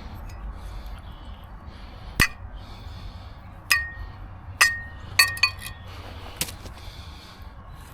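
Metal objects clinking against each other: about seven sharp metallic clinks, each with a brief ring. One comes about two seconds in, and a quick cluster follows a few seconds later.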